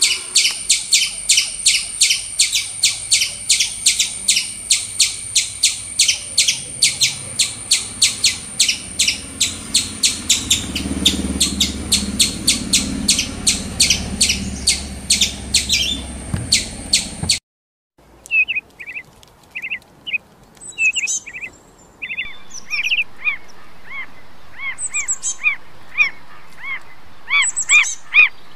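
Rapid chattering calls, about three a second, over a steady very high whine, cutting off suddenly about two-thirds of the way in. Then a bird calling in short, separate whistled notes that come more often near the end.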